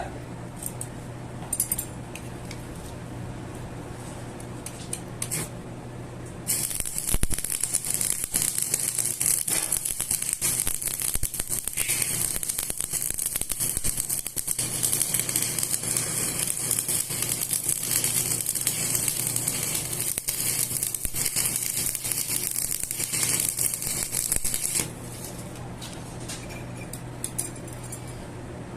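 Metal-turning lathe with its motor humming steadily. About six seconds in, a harsh, hissing metal-cutting noise starts; it runs for about eighteen seconds and then stops, leaving the hum.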